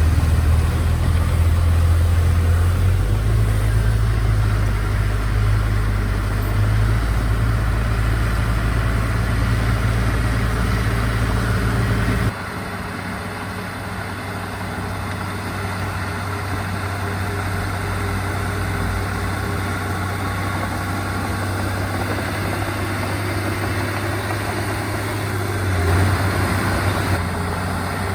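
Diesel engines of heavy earthmoving machinery running steadily, with a deep low drone. About twelve seconds in the sound changes abruptly to a quieter, less bassy engine note.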